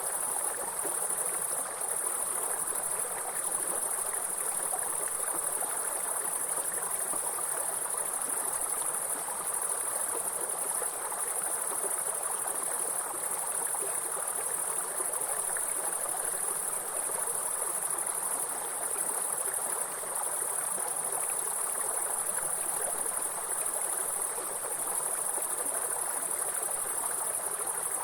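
Insects chirring in a steady, high, continuous band over the even rush of flowing water from a stream or waterfall.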